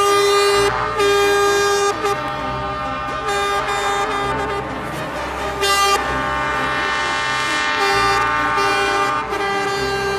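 Vehicle horns honking in a run of long and short blasts, several pitched tones sounding together and changing, over a low engine rumble.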